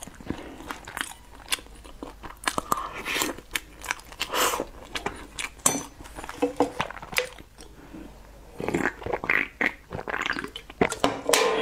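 Close-miked chewing of soft food: wet mouth sounds with many short smacking clicks, then a drink swallowed from a can near the end.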